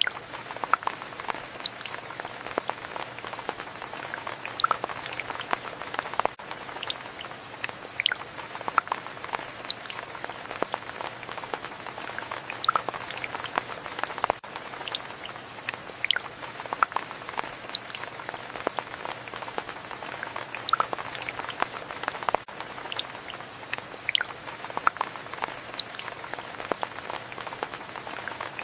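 Steady rain with many individual drops pattering and dripping irregularly, some sharp and close.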